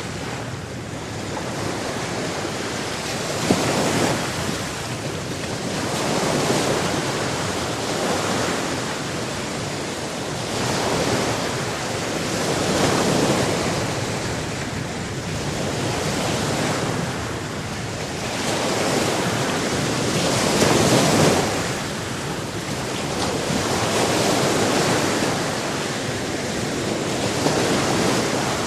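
Sea surf: waves breaking and washing in over a steady rush of water, swelling and ebbing every two to three seconds.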